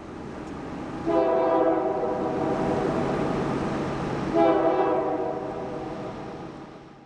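A passing train's locomotive horn sounds a multi-tone chord in two blasts: a long one from about a second in, then a second right after it. Steady train rumble runs underneath and rises before the horn, then fades away near the end.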